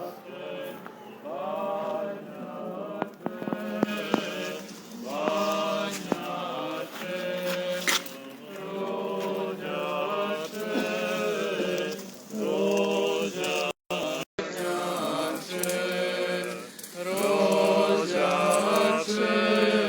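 Orthodox church chant: voices singing a hymn in phrases over a steady low held drone note. The sound drops out completely twice for a split second about two-thirds of the way through.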